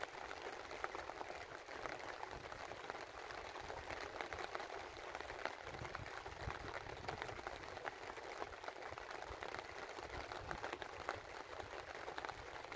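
Steady rain falling during a thunderstorm, a dense, even patter of many small drops with no thunder clap.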